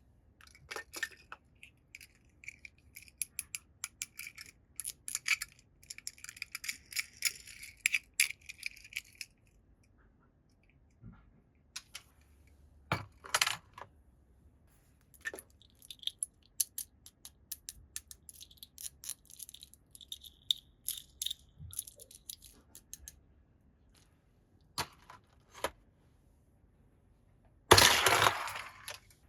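Toy cars clicking and clinking against each other and against plastic as they are handled, in irregular bursts of small knocks and rattles, with a louder noisy burst of about a second near the end.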